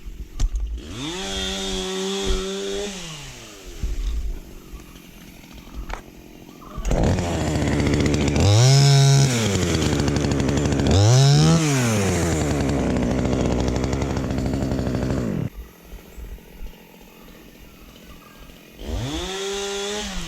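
Two-stroke chainsaw revved in bursts. After a short rev about a second in, it runs loud from about seven to fifteen seconds, its pitch rising and falling twice, then drops back to idle and revs once more near the end.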